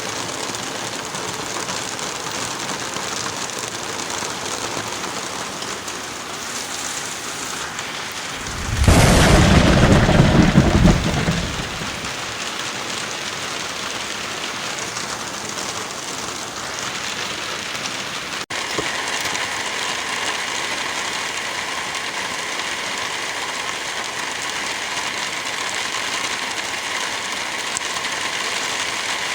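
Steady heavy rain, with a loud clap and rumble of thunder about nine seconds in that lasts about three seconds. Past the middle the rain sound changes abruptly to a slightly louder, more even downpour.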